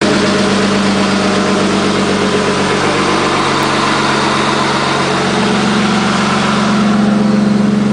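Tuned BMW 2.8i straight-six engine in a rally Land Rover idling steadily.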